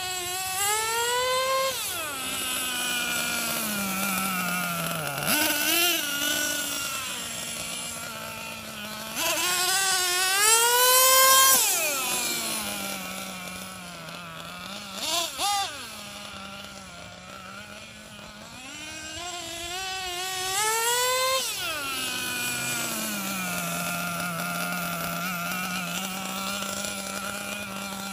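Small two-stroke gas engine of a Losi XXL-2 RC monster truck revving up hard and falling back to idle, three long rises and two short blips.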